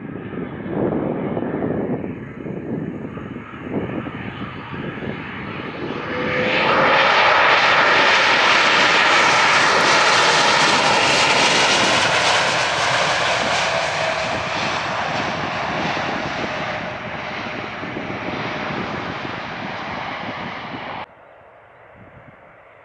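Airplane engine passing close. It grows sharply louder about six seconds in, stays loud with a gliding tone, then cuts off abruptly near the end.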